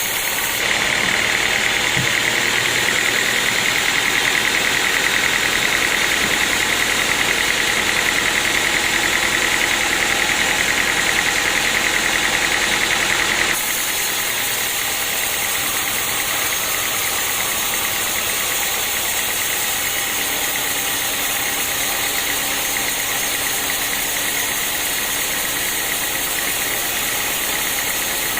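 Sawmill's engine running steadily, with a high, even whine over it during the first half. About halfway through the sound changes abruptly, and the machine keeps running at a slightly lower level.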